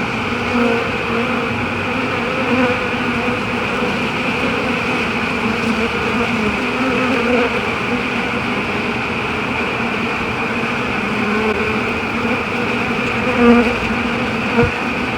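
A swarm of honey bees buzzing steadily, the hum of many wings with no break.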